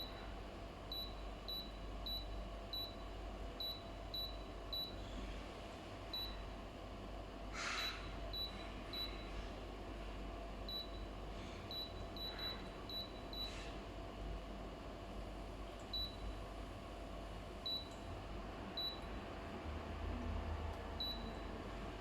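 Short, high electronic beeps, about twenty of them at irregular intervals, typical of the touch buttons on a humidifier's control panel being pressed. A steady low hum runs underneath.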